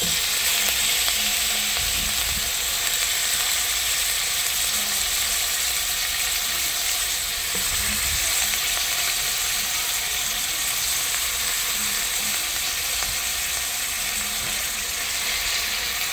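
Chicken wings sizzling steadily in hot oil as they start to brown in the pot.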